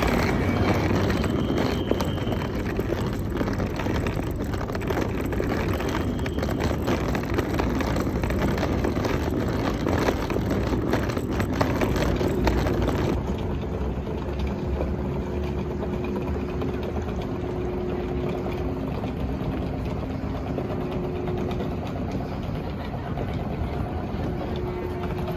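Steady rumbling vehicle noise while travelling. About halfway through, the hiss thins out and a faint steady hum comes in.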